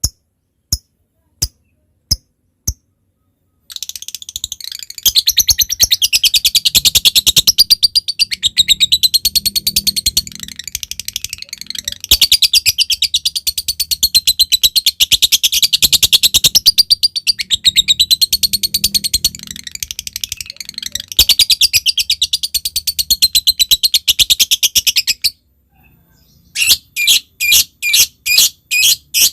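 Lovebird calling. It starts with a few sharp, separate chips about a second apart (the 'ngetik'). About four seconds in, these run into a long, fast chattering trill (the 'ngekek panjang') that lasts some twenty seconds. Near the end come quicker separate chips, about three a second.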